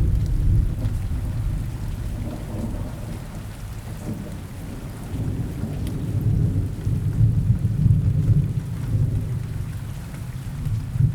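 Steady rain in a forest under a long low rumble of thunder, which is loudest near the start and swells again through the middle and second half.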